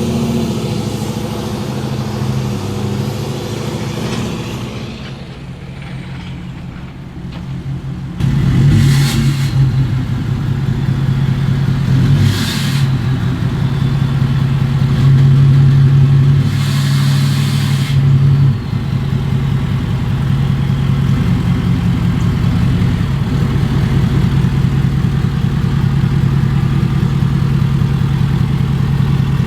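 Diesel pickup truck engine running steadily, getting louder about eight seconds in, with three short bursts of hiss over it.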